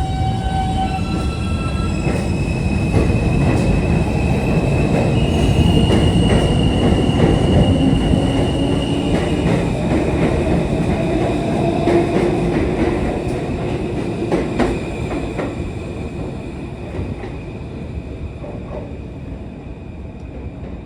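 New York City subway F train pulling out and accelerating away: its motor whine climbs in steps at the start, a high steady wheel squeal runs through, and wheels click over rail joints. It grows loudest about halfway through, then fades as the train moves off.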